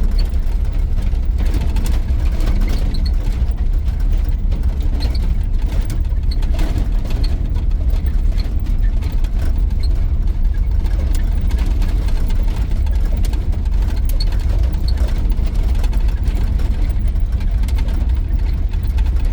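Steady low engine and road rumble inside the cab of a moving 1983 GMC C2500 pickup truck.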